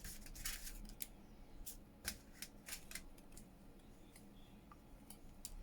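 Faint, irregular crisp rustles and light taps of paper and fabric strips being picked up, laid down and shuffled on a craft table.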